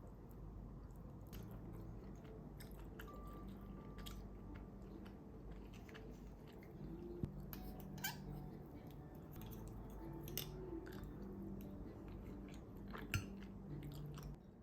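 Faint low steady hum with scattered light clicks and taps, the sharpest one near the end.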